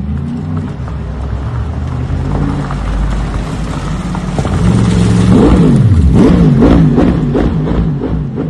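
Toyota GR GT and GR GT3 V8 engines idling with a low, uneven rumble, then, about halfway through, revved in quick repeated throttle blips, about two a second, the pitch rising and falling with each one and the sound at its loudest.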